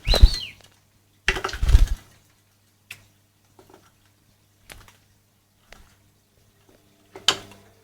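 Rosy-faced lovebird bathing, splashing and fluttering in its water: two loud splashes, one at the start and a bigger one about a second and a half in, then scattered small splashes.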